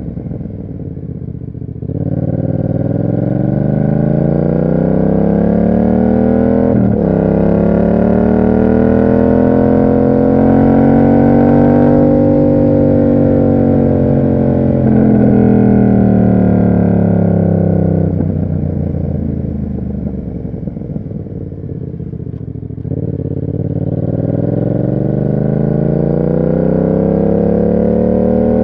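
Yamaha MT-07's parallel-twin engine through an SC Project aftermarket exhaust, pulling up through the revs for about ten seconds with a short break about seven seconds in, then easing off and dropping low before climbing again near the end.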